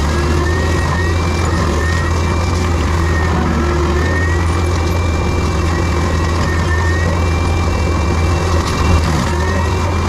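Heavy diesel land-clearing machinery running at a steady, constant engine speed, with faint high tones that rise and fall every second or two.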